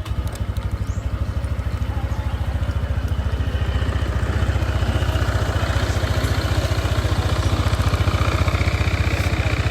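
Motor scooter engine comes on suddenly and idles steadily with a fast, even pulse.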